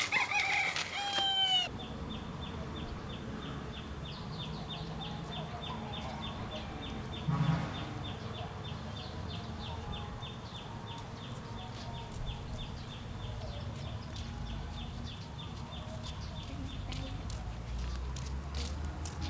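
Outdoor farm ambience: a high chirp repeats about four times a second, with a gliding bird-like call at the start and a short low animal call about seven seconds in.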